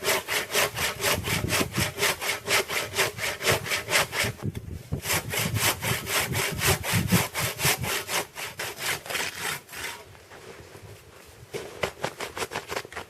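Hand saw cutting through a log in fast, even back-and-forth strokes, about four a second. There is a short break about four seconds in, and the strokes slow and fade near the end.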